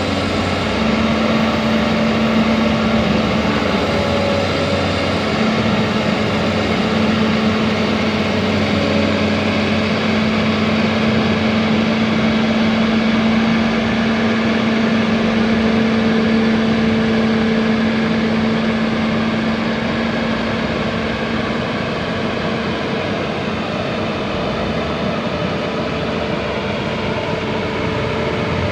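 Heavy diesel engine running steadily under a constant whine, typical of an excavator working a dump truck.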